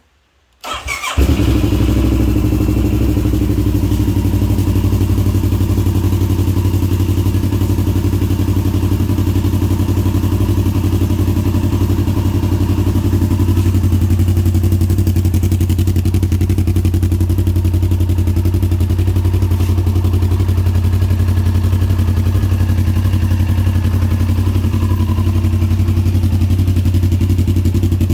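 A CFMOTO motorcycle engine is started about a second in, catching after a brief crank, then idles steadily.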